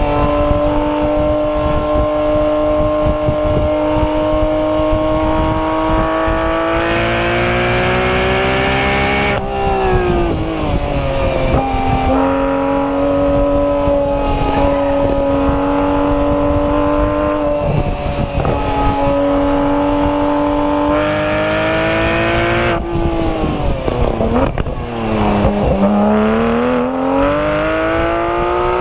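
Porsche 991 GT3 RS's 4.0-litre flat-six exhaust at speed on track. The pitch holds or climbs slowly through long pulls, drops sharply about ten seconds in with a downshift, and drops again deeply near the end before rising steadily as the car accelerates out.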